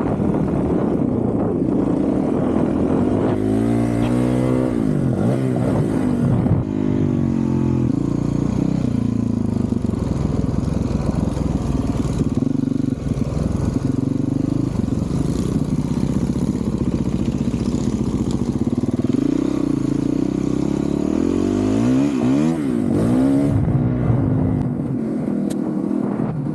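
Honda CRF450RL's 450 cc single-cylinder four-stroke engine through a full titanium Yoshimura RS-4 exhaust, ridden on a dirt track. The engine pitch rises and falls over and over as the throttle is opened and closed.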